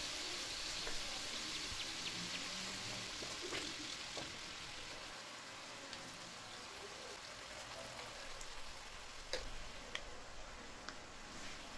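Shredded cabbage, carrots, green peppers and chicken sizzling in a hot wok: a steady frying hiss that eases a little after a few seconds. A few sharp clicks come near the end.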